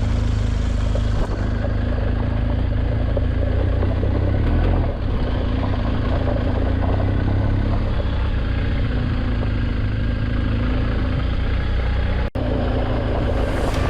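Adventure motorcycle being ridden: steady engine sound mixed with heavy wind rush over the camera microphone, with a momentary break about twelve seconds in.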